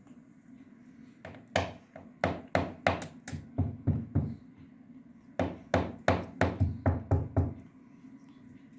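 Two runs of quick, sharp knocks, about three a second, with a pause of about a second between them.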